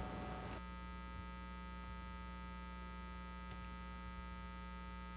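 Steady electrical mains hum with many evenly spaced overtones, and a faint hiss that drops away about half a second in.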